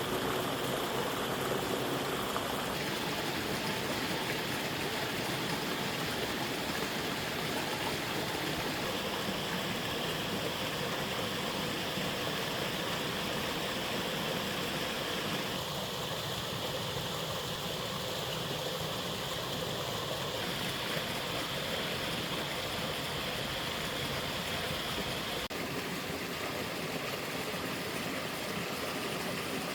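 Running water, a steady rushing like a flowing stream. Its tone shifts abruptly a few times.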